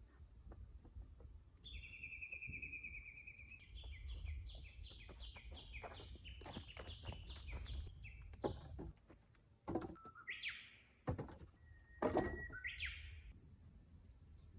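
Wild songbird singing: a trilled phrase followed by a run of quick descending notes, then two short rising calls later on. Several sharp knocks sound in between, the loudest things heard.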